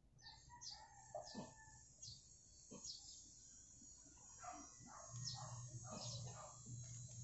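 Faint birds calling in the background: short high chirps repeated every half second or so, with fuller calls and a low steady hum coming in about five seconds in.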